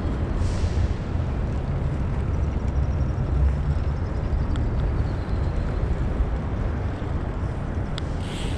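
Steady low rumble of wind on the microphone while riding a bicycle across paving, with a few light clicks, one near the end.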